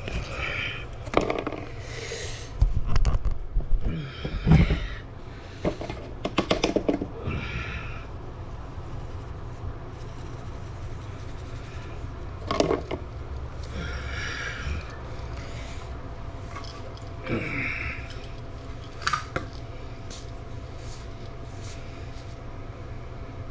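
Irregular knocks, clatters and scrapes of pipe work being handled, busiest in the first several seconds and sparser after, over a steady low hum.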